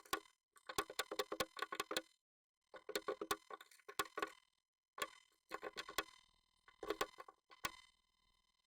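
Japanese tit inside a wooden nest box, tapping and pecking at the wood in about five quick bursts of sharp clicks with a brief ringing, separated by short pauses.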